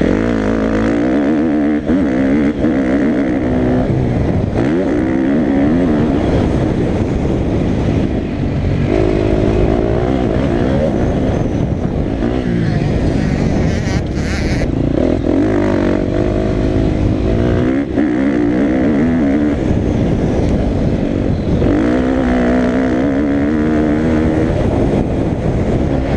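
Motocross bike engine revving up and down hard, its pitch climbing and dropping repeatedly as the throttle opens and closes, loud throughout.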